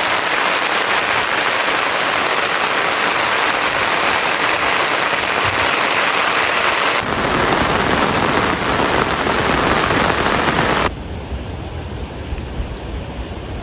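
Rain falling, a dense steady hiss; the sound changes abruptly about seven seconds in, gaining a low rumble, then drops quieter and lower about eleven seconds in.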